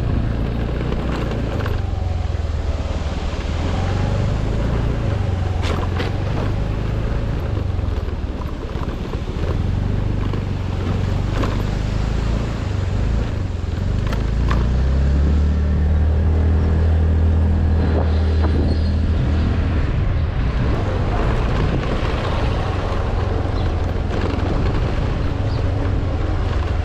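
A vehicle engine running under load on a rough, off-road track, its note shifting and climbing about halfway through as it revs, with scattered knocks and rattles from the bumps.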